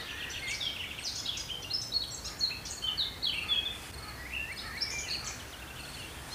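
Birds singing: a dense run of quick, varied chirps and short trills, over faint outdoor background noise.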